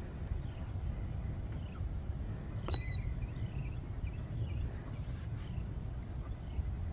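Small birds chirping faintly over a steady low rumble, with one short, sharp, high-pitched bird call about three seconds in standing out above the rest.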